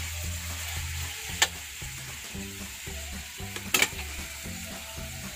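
Squid frying in a wok over a wood fire, a steady sizzle, with a spatula stirring and two sharp clacks against the pan, about a second and a half in and again near four seconds. Faint background music with low notes runs underneath.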